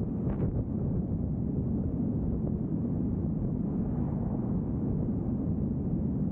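Steady low rumble of road and wind noise from a moving vehicle.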